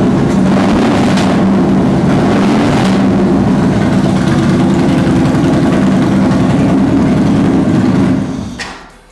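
Yamaha XV950R's air-cooled V-twin engine idling steadily, then switched off about eight seconds in, the sound dying away.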